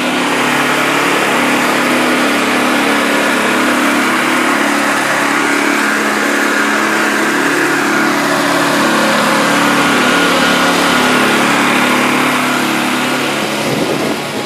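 An engine running steadily at a constant speed, loud and close.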